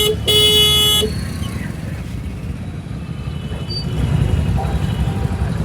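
A vehicle horn sounds a single-pitched blast that cuts off about a second in, then a steady low rumble of traffic and wind noise.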